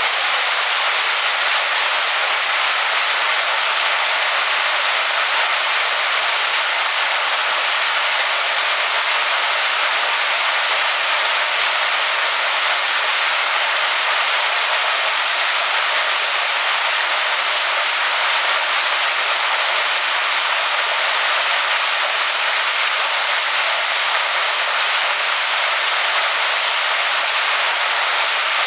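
Waterfall splashing onto rocks, a loud, steady hiss of falling water.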